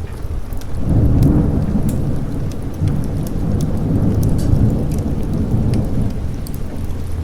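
A roll of thunder swells up about a second in and rumbles on for several seconds over steady rain, with scattered sharp crackles throughout.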